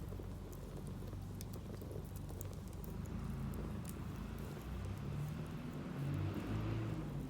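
Wood fire crackling with scattered sharp pops, and a hiss that grows louder from about halfway through. A low, steady hum runs underneath.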